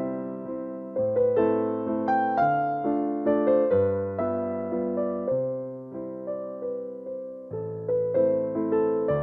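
Background piano music: a gentle waltz, with a low bass note about every second and slowly decaying melody notes above it.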